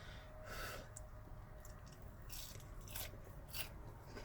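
Close-miked chewing and crunching of a hot bite of fried chicken, a few soft irregular crunches.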